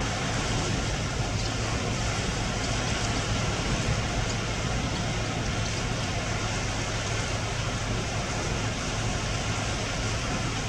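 Strong wind buffeting the microphone: a steady rushing noise, heaviest in the low end.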